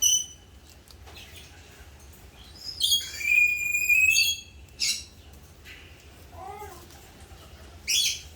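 Eclectus parrot calling. A short high call at the start, then a long, steady whistled call lasting about a second and a half from about three seconds in. Short harsh calls follow about five and eight seconds in.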